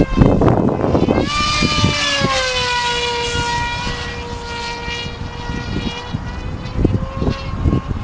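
Twin brushless electric motors and propellers of an RC Twinjet plane whining in flight; about a second in the whine comes up loud, drops in pitch over a second or two, then holds steady. Wind gusts buffet the microphone throughout, strongest near the end.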